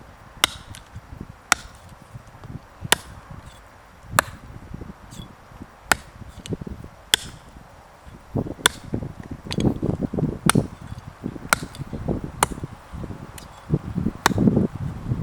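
A blade chopping into wood in slow, regular strokes: about a dozen sharp, cracking strikes, one every second or so. Low rustling handling noise fills the gaps in the second half.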